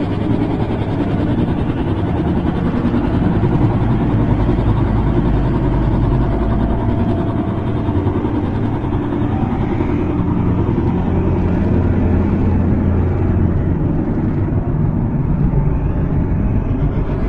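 Loud, steady low rumbling drone with faint sustained hums in it: one of the mysterious 'strange sky noise' recordings, its source unexplained.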